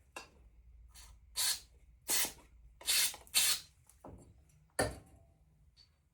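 Several short puffs of air blown by mouth to clear dirt out of a van engine part in place of a compressor, each a brief hiss.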